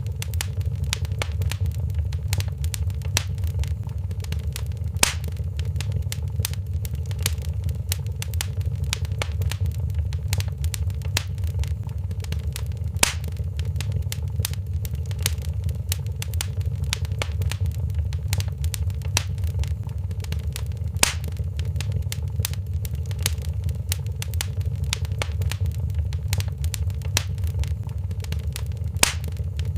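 Wood fire crackling in a fireplace: a steady low rumble of burning with many small, sharp pops and snaps, and a few louder pops about every eight seconds.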